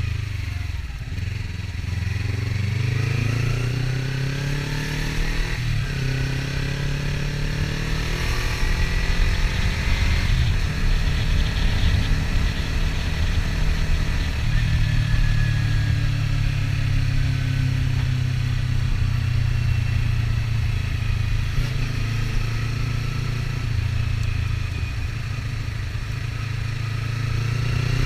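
Kawasaki Ninja 300's parallel-twin engine running under way, its pitch climbing with the revs in the first few seconds and again around ten seconds in, then holding steady.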